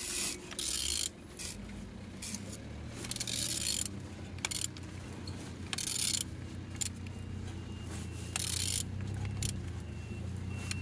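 Mercedes-Benz M111 four-cylinder engine being turned over by hand with a wrench on the crankshaft: repeated short bursts of ratchet clicking and metal rattle, over a low steady hum. The engine turns freely, a sign that it is not seized.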